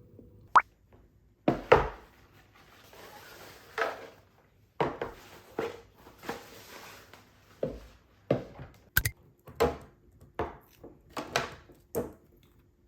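A series of sharp knocks and clicks as household items are handled and set down on a hard surface, with rustling of packaging between them.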